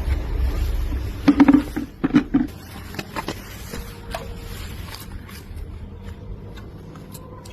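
Handling noises: a low rumble, then a quick cluster of knocks and clatter about a second and a half in, a few scattered clicks, and quieter scraping after.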